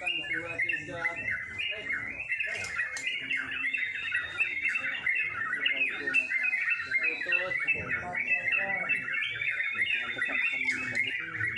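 Several caged yellow-vented bulbuls (trucuk) singing at once in a dense, unbroken chatter of overlapping bubbly chirps.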